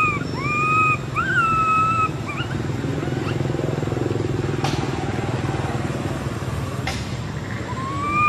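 Baby macaque crying during weaning: a few short, high, wavering wails in the first two seconds and another drawn-out wail near the end. A steady low hum runs underneath.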